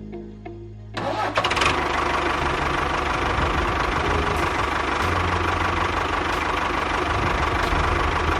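A small motor starting up about a second in, then running steadily.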